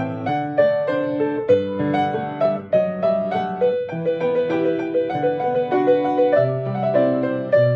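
Solo piano playing a melody over low bass notes, the notes and chords changing every second or so. The uploader says the piano sound is not good.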